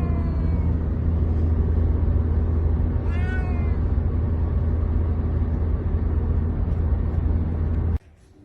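A cat meowing: one meow trails off at the start and another falling meow comes about three seconds in. Both sit over a steady low rumble that cuts off suddenly near the end.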